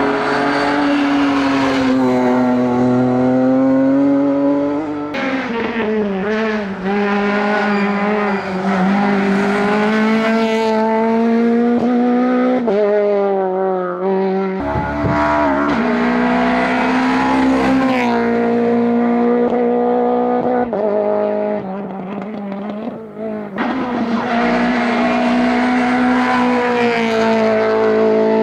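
Rally car engines at full throttle: a BMW M3 E36's straight-six, then a Peugeot 208 VTi R2's four-cylinder engine revving hard, its pitch climbing and dropping through gear changes. The sound switches abruptly several times between passes.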